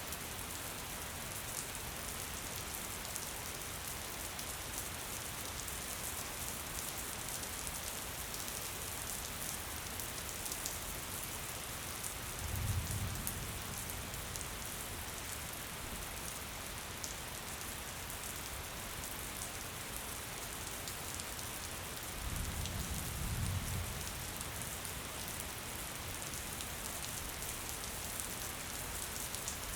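Steady gentle rain falling, an even hiss with fine drop patter. Two brief low rumbles swell under it, one a little before the middle and one about three quarters of the way in.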